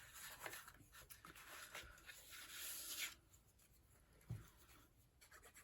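Faint rustling and rubbing of paper cardstock being handled and pressed down by hand for about three seconds, then a single soft tap a little after four seconds in.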